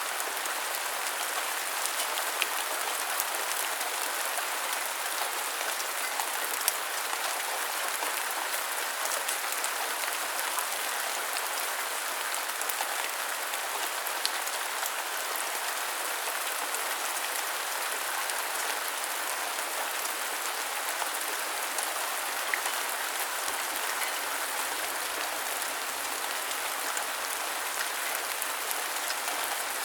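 Steady rain: an even hiss, with scattered sharp ticks of individual drops.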